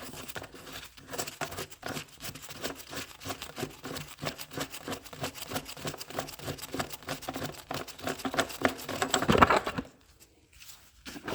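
Rapid clicking of a socket ratchet turning out the 10 mm bolts that hold a generator's air cleaner assembly, with a louder clatter about nine seconds in.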